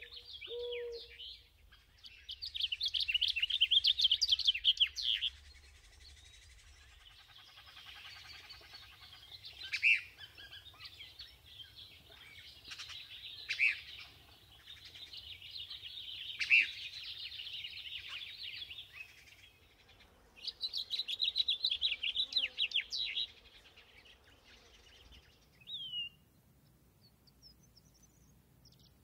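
Wild birds calling and singing in a run of separate recordings: loud bursts of rapid, high trilled notes, a busy twittering chorus with a sharper note every few seconds, and a few short down-slurred calls near the end. A low cooing call is heard briefly at the start.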